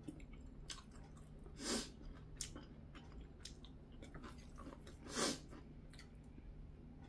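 A person chewing food faintly, with soft mouth clicks, and two short louder rushes of noise about three and a half seconds apart.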